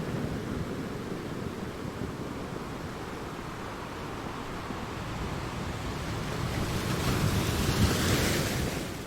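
Sea waves washing against rocks: a steady low rumble of surf, then a wave breaks with a swelling hiss about two-thirds of the way in that falls away near the end.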